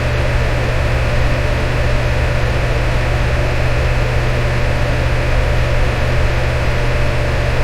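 Electric fan running steadily: a constant whoosh of moving air over a low motor hum, with no change in speed.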